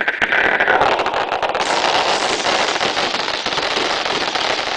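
Fireworks going off in a dense, rapid string of cracks and pops, turning hissier about a second and a half in.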